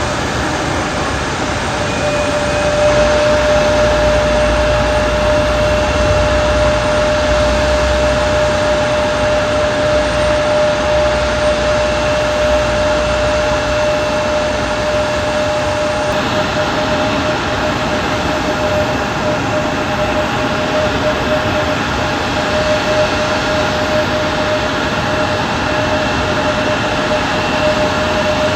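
Steady engine drone heard from inside a moving vehicle: an even rush of noise with a constant mid-pitched hum.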